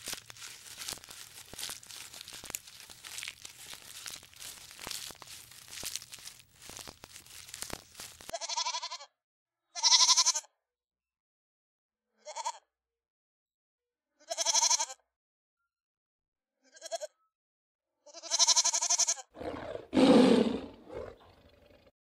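Crackling, rustling noise for about eight seconds, then about six short, pitched animal calls a second or two apart, and a lower, rougher call near the end.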